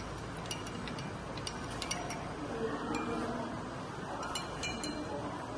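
Light clinks of a spoon against a glass while detergent is mixed into turmeric solution, coming in a few small groups with short ringing.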